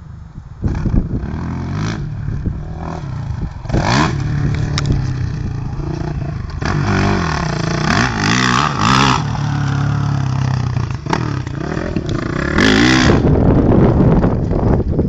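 Honda CRF450 motocross bike's four-stroke single engine revving hard, its pitch rising and falling again and again as the throttle is opened and shut. It comes in suddenly about a second in.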